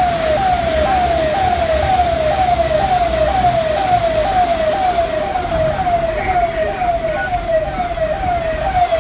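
An electronic siren or alarm sounding a fast repeated falling tone, about two and a half sweeps a second, over a steady hiss of background noise.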